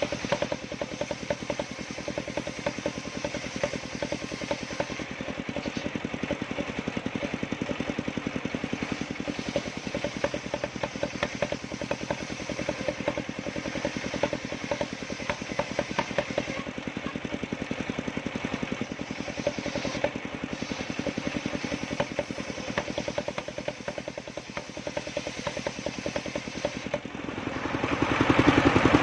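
Engine of a homemade circular-saw sawmill running steadily with a rapid, even chug. It grows louder near the end.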